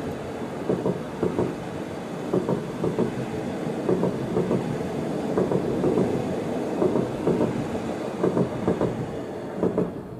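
Rhaetian Railway metre-gauge train rolling past, its wheels clattering with many irregular knocks over a steady rumble. The sound dies away near the end as the last car clears.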